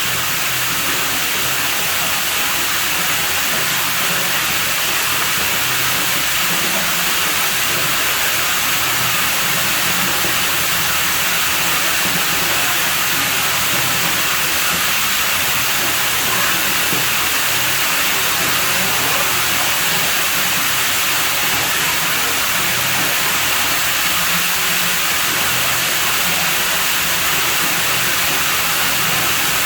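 Running water at a pool villa, a steady rushing hiss that does not change.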